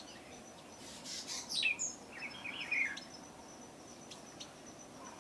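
Birds calling: a few quick falling whistles about a second in, then a short warbling chatter, over a faint pulsing high-pitched tone.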